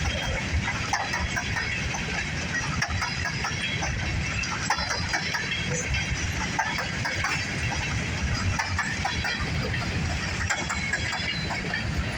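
Freight train of grain hopper cars rolling past, a steady low rumble with frequent clicking from the wheels.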